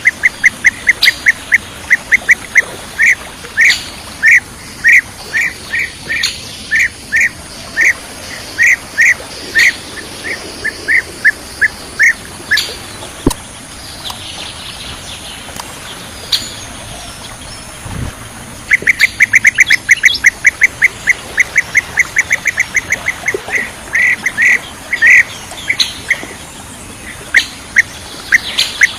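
Bee-eater (kirik-kirik) calling: series of short, clipped notes repeated two or three times a second, pausing for several seconds near the middle, then starting again with a fast run of notes. Two sharp clicks fall in the pause.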